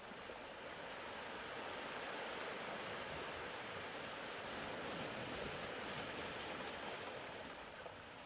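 Soft ocean-surf ambience: a steady wash of waves that swells gently through the middle and eases off near the end.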